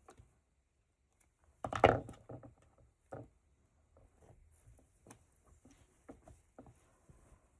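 Hand-stitching handling sounds: thread drawn through fabric with small taps and rustles, and one louder rustling knock about two seconds in.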